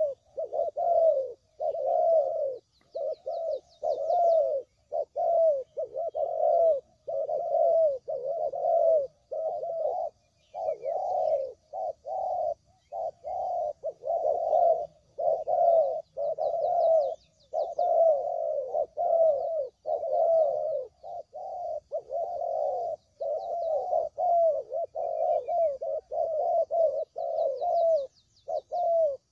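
Spotted doves (tekukur) cooing over and over in a lure-call recording, the coos following each other almost without a break. Faint high chirping of small birds sits behind them.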